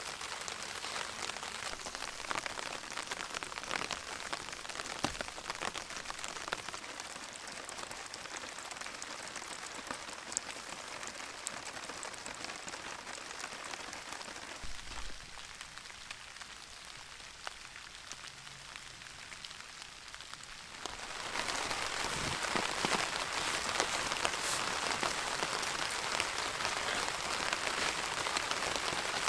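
Steady rain pattering on a Cuben fiber (Dyneema) tarp overhead, a dense patter of fine drop ticks. About two-thirds of the way through the rain grows clearly heavier and louder.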